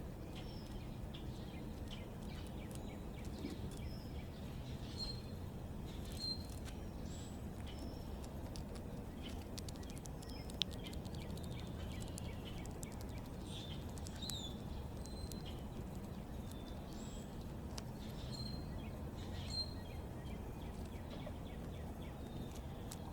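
Small backyard birds giving short, high chirps now and then, over a steady low background rumble, with one sharp click about ten seconds in.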